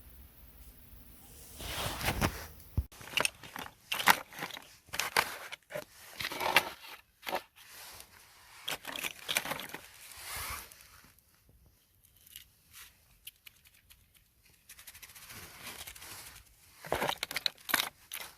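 Close, irregular crunching, tearing and snipping sounds of something crisp being handled, in dense bursts with a quieter stretch of scattered clicks in the middle.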